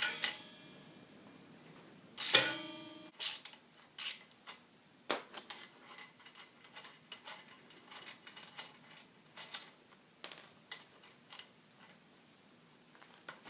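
Hand tools and loose metal parts clinking and knocking as a 17 mm socket wrench undoes the chain roller bolt on a pit bike and the roller comes off. A bright ringing metal clang about two seconds in, then scattered light clicks and taps.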